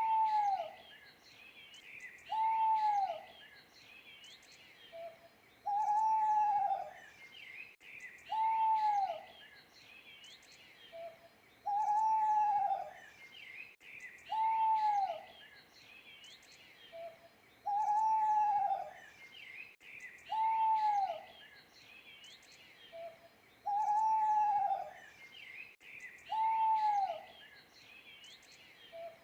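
Owl hooting in a repeating cycle: two long hoots about two seconds apart, each dropping in pitch, then a short soft note, the pattern coming round about every six seconds. Faint high chirping runs behind.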